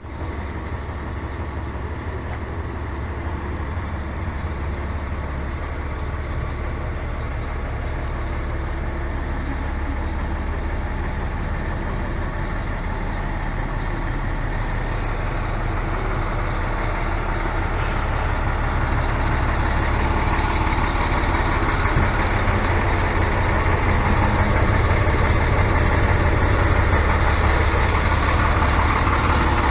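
Scania diesel engine of a Marcopolo Paradiso G6 coach running steadily with a deep low hum, growing gradually louder.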